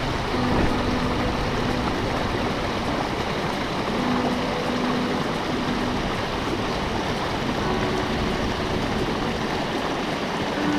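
Mountain stream rushing steadily over rocks, a full, even flow.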